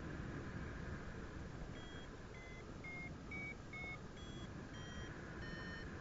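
Paragliding flight variometer beeping in short, pitched tones about twice a second, starting about two seconds in, over a steady rush of wind. These are the climb beeps that signal the glider is rising in lift.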